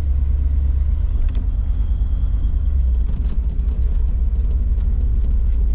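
1987 Chevrolet Silverado's throttle-body-injected 350 V8 with a mild RV torque cam, idling steadily while warming up after a cold start.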